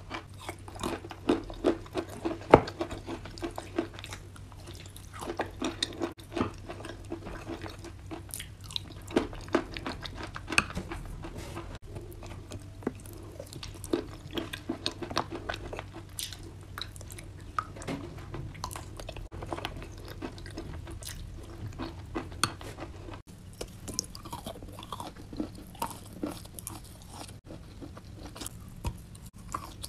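Close-miked chewing of chalk and clay in a creamy paste: a steady run of sharp crunches and wet mouth clicks.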